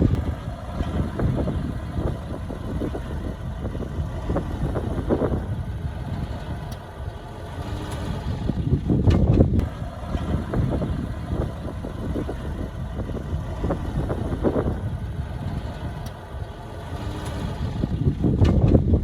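CAT D5C bulldozer's diesel engine running under load while working soil, rising in level about halfway through and again near the end.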